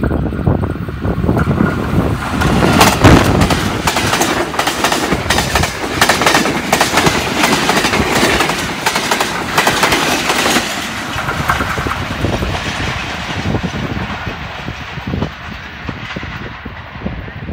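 Express passenger train led by a ZCU-20 diesel-electric locomotive passing close by at speed. Engine noise gives way to a dense, rapid clatter of wheels over the rails as the coaches rush past, loudest from about three to ten seconds in, then fading as the train pulls away.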